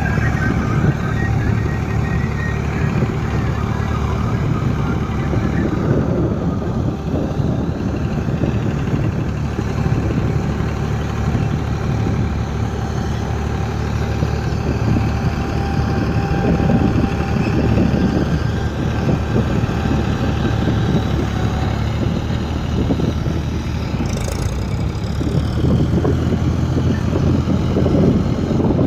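New Holland 3630 tractor's diesel engine running steadily while pulling a laser land leveller.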